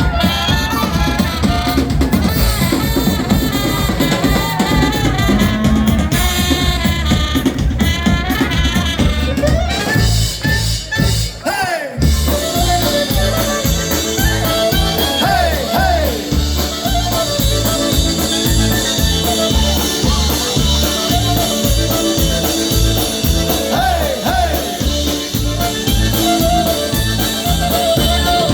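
A live polka band playing, with brass and a drum kit. The music thins out briefly near the middle, then comes back in on a steady, even beat.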